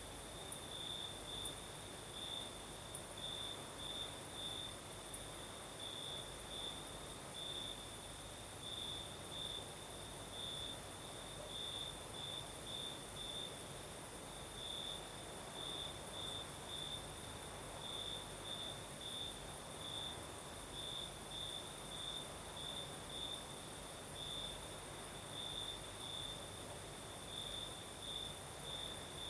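Crickets singing at night: one cricket's short chirps, repeated at one steady pitch about twice a second, over a continuous high-pitched trill.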